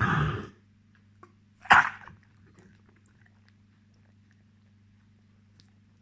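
A dog coughing: a rough hack lasting about half a second, then a sharper, louder cough just under two seconds in, followed by a few faint clicks.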